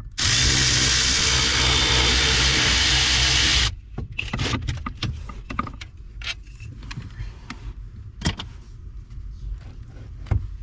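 A power tool runs steadily for about three and a half seconds and cuts off suddenly, followed by scattered light clicks and knocks of hand work on the steering column's metal parts.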